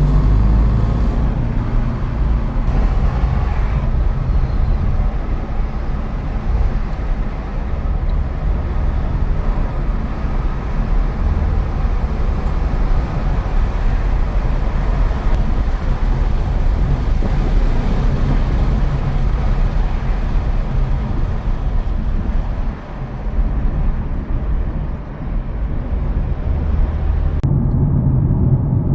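Car engines running with a steady low rumble, and the sound changes abruptly near the end.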